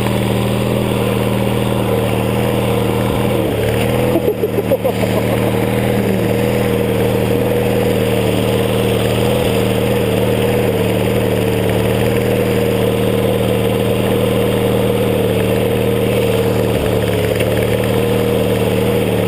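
Small lawn-tractor engine running steadily at constant speed, with a brief dip and wobble in the sound about four seconds in.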